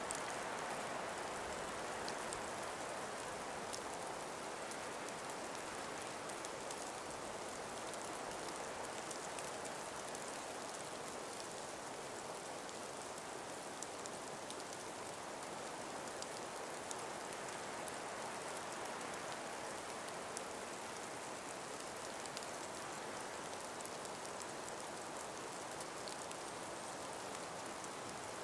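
Calm winter breeze hissing steadily through ice- and snow-laden forest trees, with faint scattered ticks.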